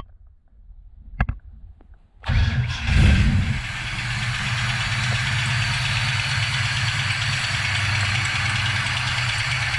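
Craft Performance 408 cubic inch engine starting a little over two seconds in after a click, flaring briefly, then settling into a steady idle with a knock.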